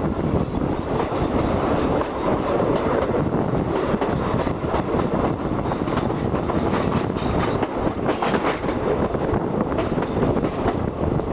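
Passenger train running on the track: a steady rumble with rapid wheel clicks over the rail joints.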